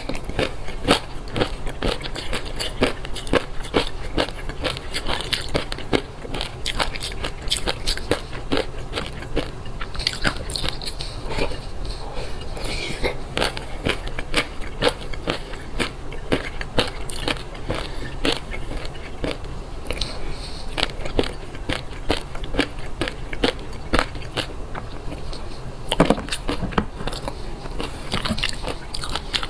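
Close-miked chewing of a mouthful of fish roe, the pearls popping between the teeth in a dense, rapid run of wet crackling clicks.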